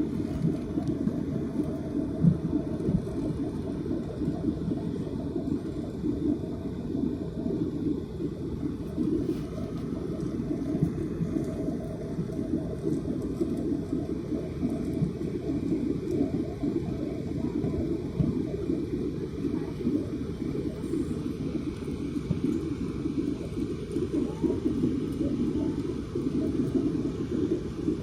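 Airliner cabin noise: a steady low noise of the jet engines and rushing air, heard from inside the passenger cabin.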